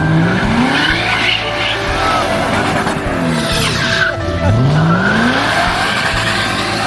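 Car engines revving hard under acceleration, their pitch climbing and dropping at gear changes, most clearly about four seconds in. Background music plays underneath.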